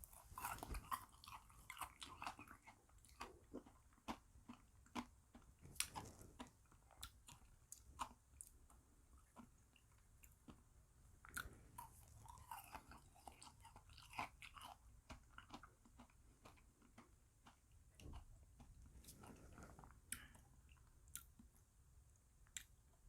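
Close-miked eating of bead ice cream: small frozen beads crunched and chewed, with many short, irregular clicks and crackles.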